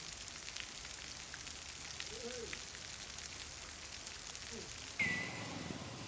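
Steady rain falling, a fine hiss with scattered drops ticking. About five seconds in, the sound cuts abruptly to a different, lower background with a short falling squeak.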